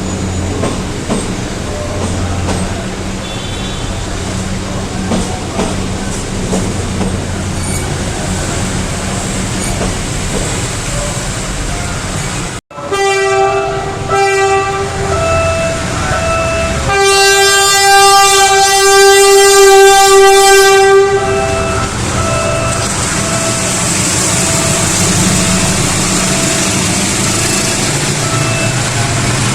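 Diesel train running with a steady low engine rumble, then its air horn sounding: a couple of short blasts, followed a few seconds later by one long, loud blast of about four seconds.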